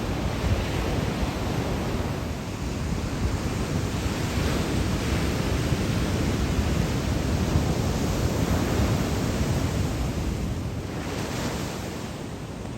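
Surf breaking and washing ashore in heavy typhoon swell, with wind buffeting the microphone. The noise swells and eases as sets of waves come in, dropping off a little near the end.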